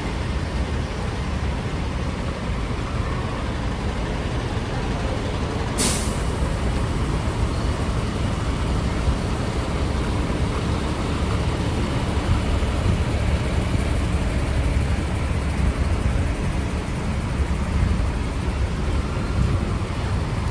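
Road traffic: vehicle engines running with a steady low rumble, and one short sharp hiss about six seconds in.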